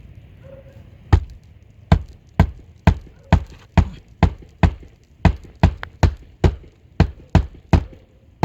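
Footsteps on a shingle roof: an even run of heavy thuds, about two a second, starting about a second in.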